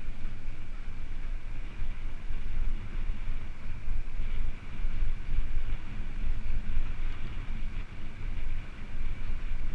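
Wind buffeting the microphone of a moving bicycle: a steady, uneven rumble, with a fainter steady higher whir from the ride beneath it.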